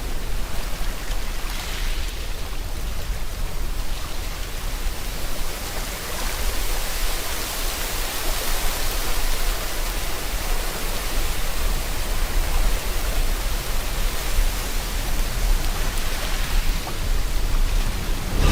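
Steady heavy rain hiss over a deep low rumble of ocean surf, swelling slightly in the middle.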